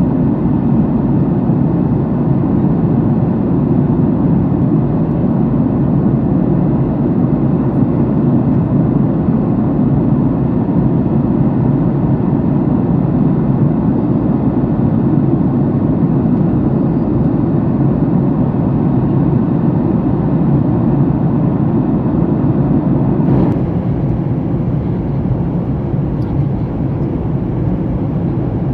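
Airliner cabin noise in flight: a steady roar of engines and rushing air, heard from inside the cabin. About 23 seconds in there is a faint click, and after it the roar is a little quieter and thinner.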